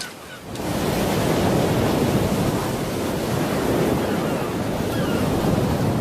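Ocean surf washing onto a beach: a steady, loud rush of waves that starts abruptly about half a second in.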